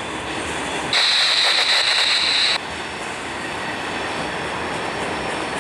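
Freight train cars rolling by on the rails, their wheels running steadily over the track. A steady high hiss cuts in about a second in and stops suddenly about a second and a half later.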